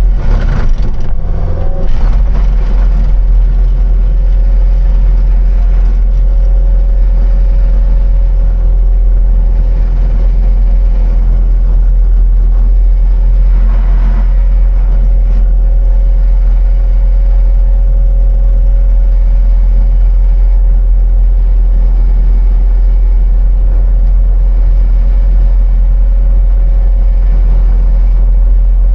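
Diesel engine of a piece of heavy earthmoving equipment running steadily and loudly, with a few short knocks and clatter in the first couple of seconds.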